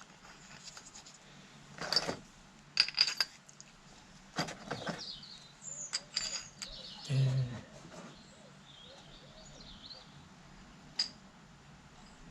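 Small metal parts clinking and tapping as nuts and bolts are handled: several separate sharp clinks, with a dull knock about seven seconds in. Faint bird chirps come in near the end.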